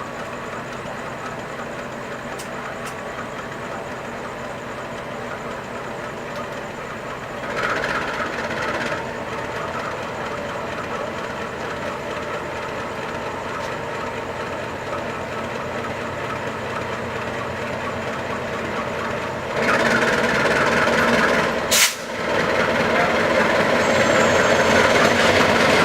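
Passenger train running, a steady rumble of wheels on track with a brief louder surge about a third of the way in. About three quarters of the way in it grows louder and stays loud, with one sharp click.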